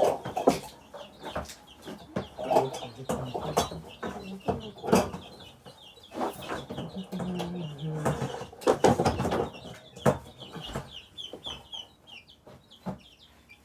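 Baby chicks peeping over and over in short high-pitched calls, with repeated knocks and clatter from things being handled close by.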